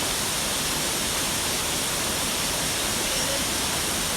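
Waterfall's falling water making a steady, unbroken rush.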